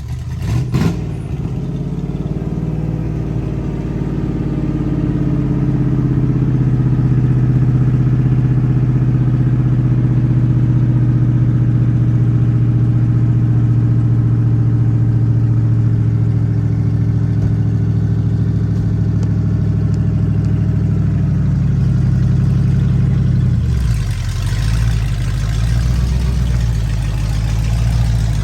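A short knock, then a mud truck's engine running loud and steady for some twenty seconds. About five seconds before the end it gives way suddenly to a rougher, noisier engine sound.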